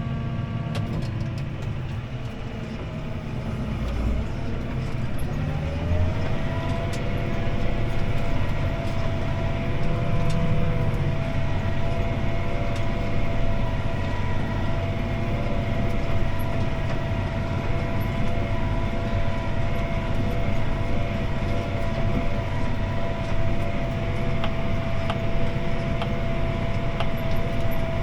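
CLAAS ARION 650 tractor's six-cylinder diesel engine running, heard from inside the cab. About four to six seconds in its revs rise, then it holds a steady, louder pitch under load pulling the disc harrow.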